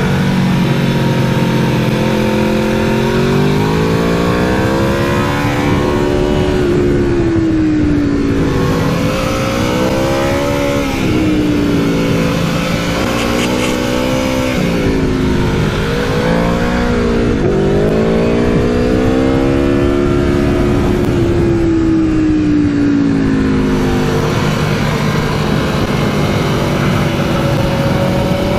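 Aprilia Tuono V4 motorcycle's V4 engine on track, heard onboard, its revs climbing and dropping again and again as it accelerates and slows, with one long steep climb about two thirds of the way through.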